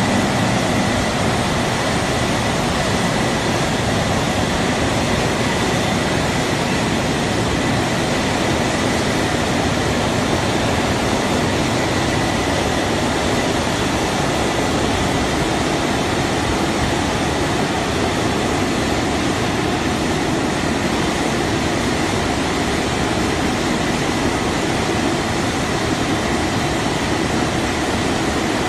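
Tunnel car wash machine running: a steady, even rushing noise of its machinery and spray, with a faint steady whine.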